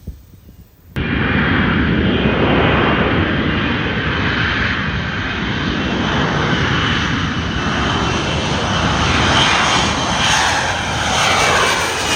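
Jet noise of an F-35 Lightning II fighter's single F135 turbofan as it passes, starting abruptly about a second in and staying loud throughout.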